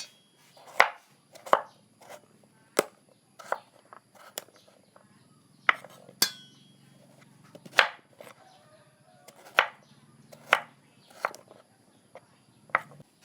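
Kitchen knife chopping pumpkin on a cutting board: about a dozen sharp separate chops, irregularly spaced about a second apart.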